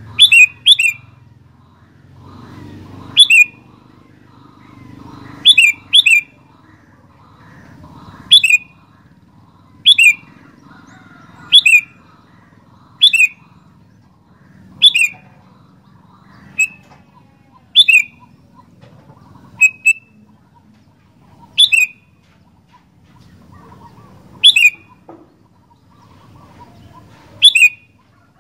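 Sooty-headed bulbul (kutilang) calling: short, sharp notes that drop quickly in pitch, repeated about every one and a half to two seconds, a few given as quick doubles.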